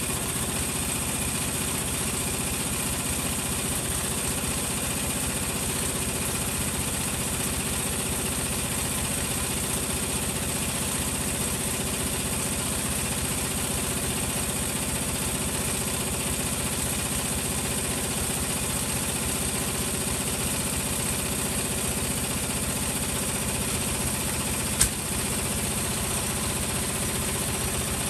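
Hoover washing machine running on its cotton 60 programme, the drum spinning at a steady speed with an even machine hum and no pauses. A single sharp click comes about 25 seconds in.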